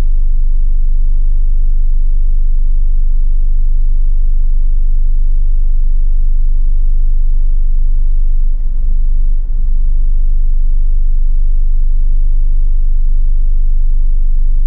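Hyundai Tiburon engine idling roughly with the automatic transmission in gear, a steady low rumble that briefly dips twice a little past halfway. The fluctuating, uneven idle is the sign of a faulty spark plug cable.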